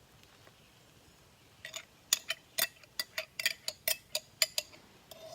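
A metal utensil clinking and scraping against a cast iron skillet, about a dozen quick metallic clinks in three seconds, starting after a short quiet stretch.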